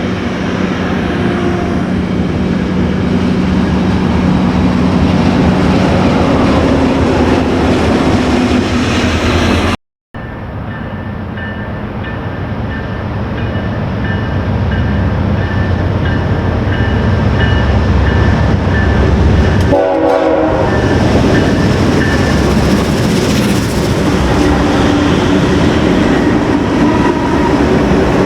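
Train passing on the rails: a steady loud rumble of locomotive and rolling cars. About ten seconds in the sound cuts out for a moment, then the train rumble returns.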